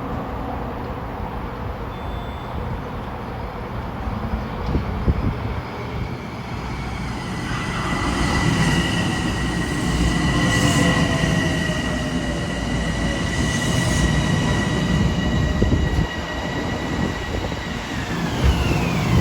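Metro-North M7A electric commuter train at the station. It rumbles louder from about halfway through, with two steady high-pitched whines over the rumble. Near the end the whines slide down in pitch.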